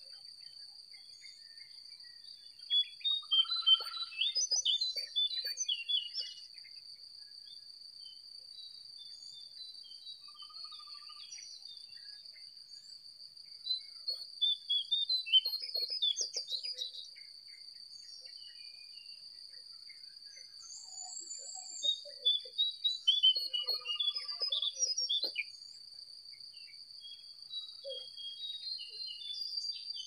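A songbird sings three phrases of quick chirping notes, each lasting three to four seconds, over a steady shrill insect call.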